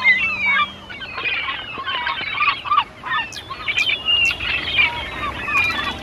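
Several songbirds singing at once, a dense chorus of overlapping chirps, trills and warbles, with three very high, thin notes about half a second apart in the middle.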